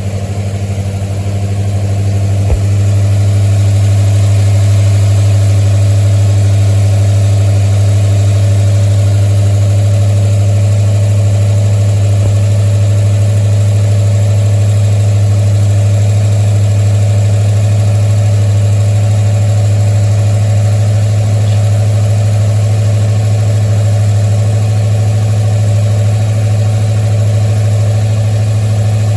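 1973 Ford Mustang engine idling steadily, a little louder over the first few seconds, with one short click about two and a half seconds in. The engine is running with the alternator charging the battery at about 14.2 volts.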